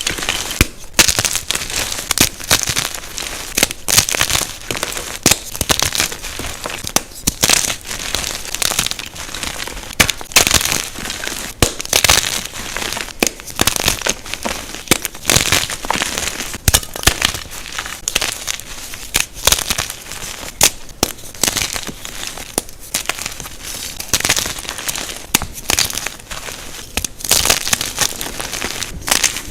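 Jumbo blocks of unpolished gym chalk being crushed, a dense, uneven run of crisp crunches and crackles.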